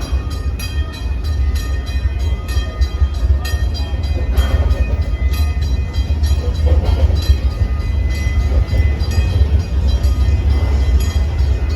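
Narrow-gauge park train, hauled by the 1901 Dickson-built steam locomotive General Sam Houston, running along the track as heard from on board. A steady low rumble with a regular beat of about three a second.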